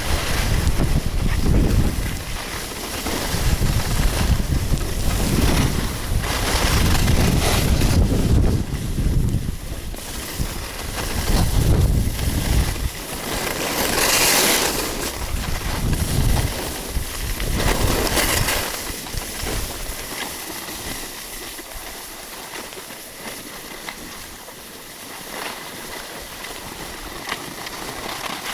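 Mountain wind buffeting the camera microphone in gusts, with a short loud hiss about halfway through; the gusts die down for the last several seconds.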